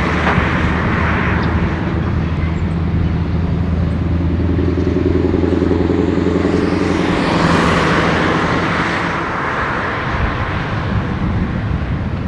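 Scania 143M's V8 diesel running through a big-bore exhaust as the truck drives past, with a steady low engine note. It is loudest about seven to nine seconds in, then fades away near the end.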